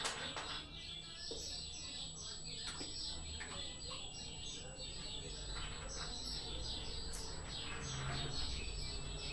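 Small birds chattering: a steady run of quick, high chirps.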